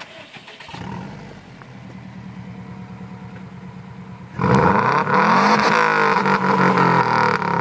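Subaru WRX turbocharged flat-four running through a 5Zigen Fireball aftermarket exhaust: a steady idle, then about four and a half seconds in a sharp blip of the throttle that makes the exhaust note much louder, rising in pitch and settling back into a loud, raspy burble.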